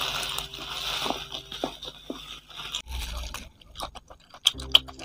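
Close-miked chewing and crunching of crispy fried chicken feet in a spicy sauce, with a run of short crisp crunches and two sharp, loud ones near the end.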